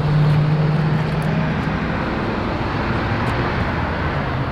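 A motor vehicle's engine running steadily, a low hum that is strongest in the first second, over a constant wash of street noise.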